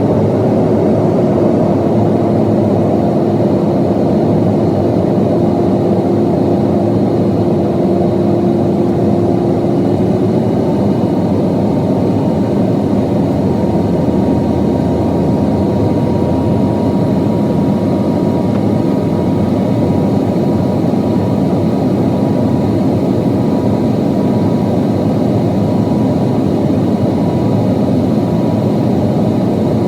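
Steady cabin noise inside a Boeing 737-800 in flight: the drone of its CFM56 jet engines and rushing air. A steady hum fades out about ten seconds in, and a higher tone comes in about then.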